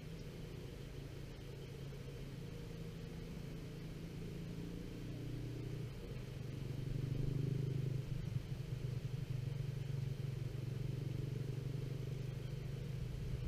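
Distant thunder from a thunderstorm, a low rumble that rolls on and swells a little midway through.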